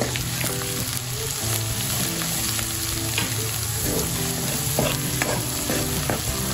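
Spice paste sizzling as it fries in hot oil in an aluminium kadhai, with a steel spoon stirring and scraping it around the pan, giving a few short clicks. This is the masala being roasted in oil on low flame.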